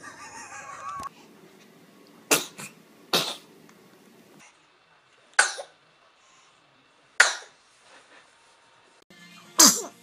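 Babies sneezing: five short, sharp sneezes from several different infants, one every second or two.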